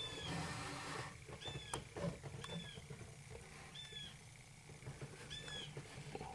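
A small bird chirping, short high single notes repeated every second or so.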